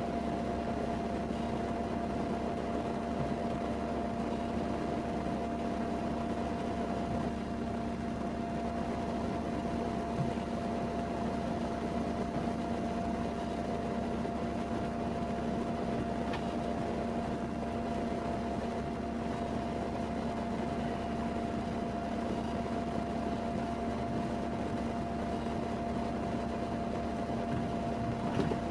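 Steady mechanical hum and hiss with two constant tones, unchanging throughout, like a fan or idling motor.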